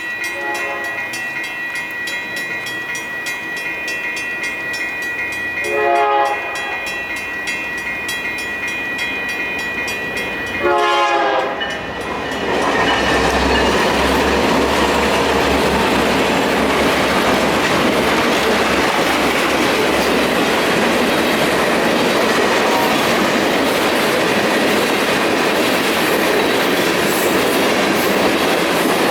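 Electronic crossing bell ringing steadily while a diesel freight locomotive sounds its horn three times: short blasts near the start and about six seconds in, and a longer one about eleven seconds in. Then the EMD SD59MX diesel locomotives pass over the crossing with a loud, deep engine rumble and wheel noise that drowns out the bell.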